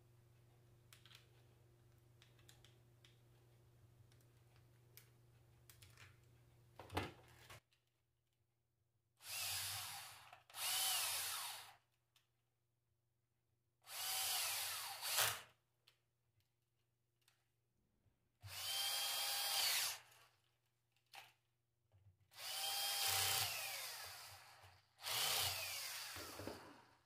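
A power tool, drill-like, run in six short bursts of one to two seconds each, its whine gliding in pitch as it spins up and winds down, after a sharp knock.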